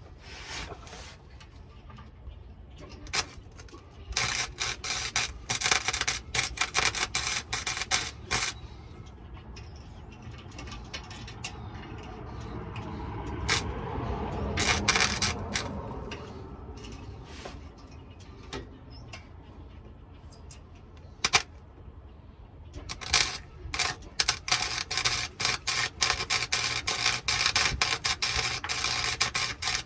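Welding arc on a truck exhaust pipe crackling and sputtering in two runs of a few seconds each, with a few single cracks between them. A duller sound swells and fades in the middle.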